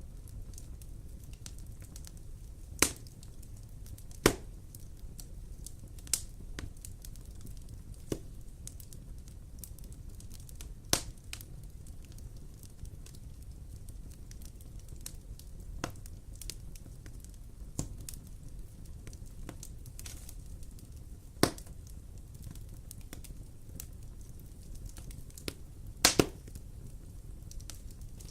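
Wood fire burning in a fireplace: a steady low rumble with sharp crackles and pops every few seconds, a few of them much louder than the rest.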